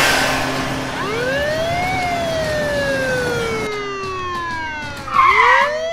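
Police siren wailing: a slow rise and fall in pitch that begins to rise again near the end. A short, louder burst of sound comes about five seconds in.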